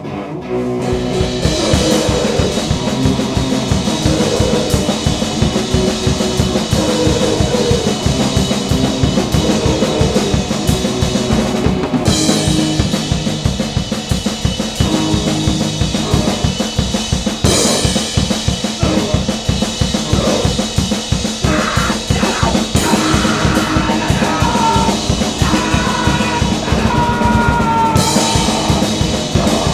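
Grindcore band playing: drums come in about half a second in with a fast, steady beat under loud distorted guitar, and high guitar squeals bend in and out in the later part.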